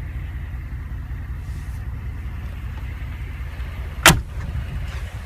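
Steady low rumble in the cabin of a Mercedes-Benz G550, with one sharp click about four seconds in.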